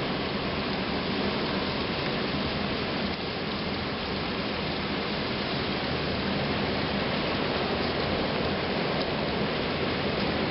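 Heavy rain from a severe thunderstorm pouring down steadily.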